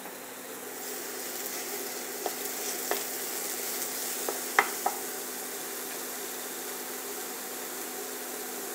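Diced bacon and thinly sliced onions sizzling steadily in olive oil in a frying pan, sautéing until the bacon crisps. A few sharp knocks and scrapes of a wooden spatula stirring the pan come between about two and five seconds in.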